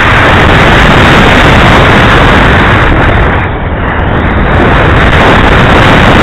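Estes Helicat model rocket launching, heard loud and close: the motor's burn and the rush of air overload the microphone into a steady, very loud roaring hiss that eases slightly about halfway through.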